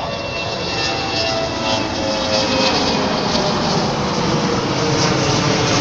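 Boeing 717 twin turbofan jet climbing out after takeoff: steady jet engine noise that grows slowly louder, with a faint whine slowly falling in pitch.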